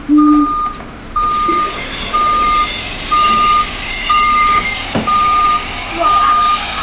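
Road roller's reversing alarm beeping, about one high beep a second, each about half a second long, over steady machine noise. A sharp click about five seconds in.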